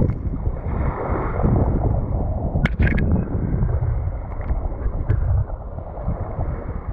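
Wind buffeting the microphone in gusts, with a few sharp clicks about three seconds in.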